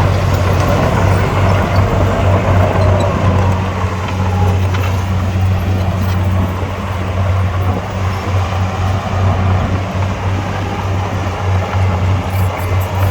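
Heavy diesel engine of earthmoving machinery running steadily, with a deep constant tone.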